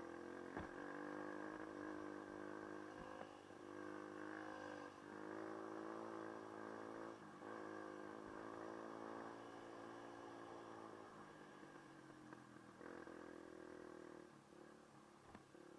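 Dirt bike engine running while riding, its pitch rising and falling as the throttle changes and settling lower near the end, with a few sharp knocks.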